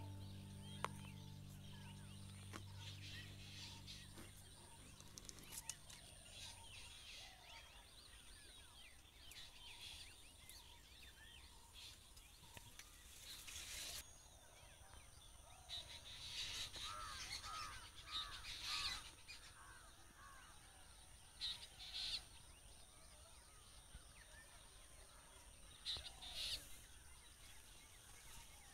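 Soft background music fades out in the first several seconds, leaving faint outdoor ambience with birds calling now and then. Louder calls come in the second half.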